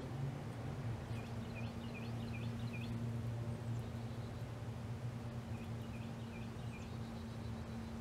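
A bird sings a phrase of about six quick, repeated dipping notes about a second in, then about four more near the end, over a steady low hum.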